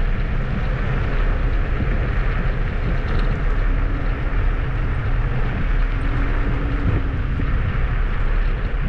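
Steady rushing wind noise on the microphone and tyre rumble from riding a Kugoo G2 Max electric scooter, strongest in the low end.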